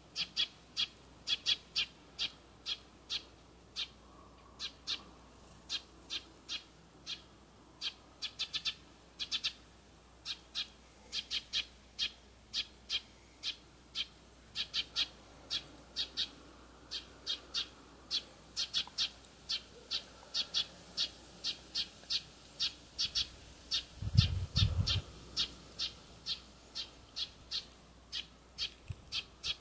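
A bird calling: one short, sharp note repeated over and over, about two to three times a second. About three-quarters of the way through there is a brief low rumbling bump.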